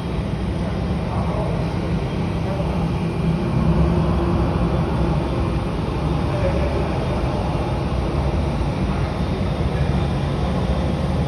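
Steady low rumble of a Boeing 777 airliner in motion.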